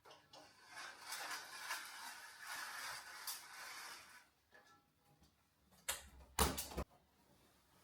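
Quiet household handling sounds: soft rustling for about four seconds, then a few sharp clicks and a knock near the end.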